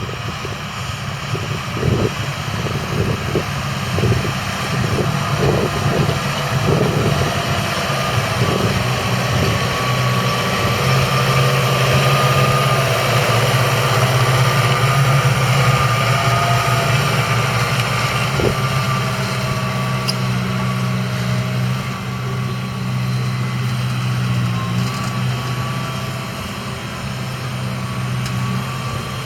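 Massey Ferguson 5S.145's 4.4-litre four-cylinder diesel engine running steadily, with a thin whine over its hum. A run of clattering knocks sounds in the first few seconds. The engine grows a little louder towards the middle and drops away near the end.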